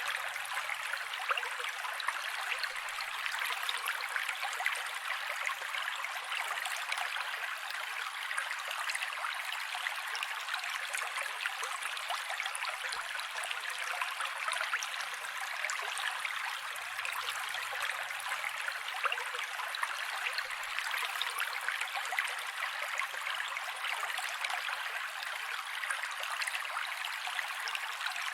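Mountain creek running steadily: an even, unbroken rush of flowing water with almost no low rumble.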